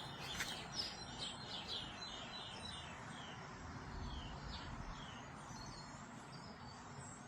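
Faint birdsong: several birds giving short, high chirps and calls, some falling in pitch, over a steady outdoor background hiss. A single light click about half a second in.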